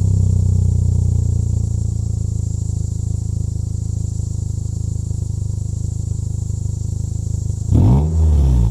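Muffler-deleted exhaust of a 2012 Mitsubishi Lancer SE's four-cylinder engine idling steadily, then one quick rev of the throttle that rises and falls near the end.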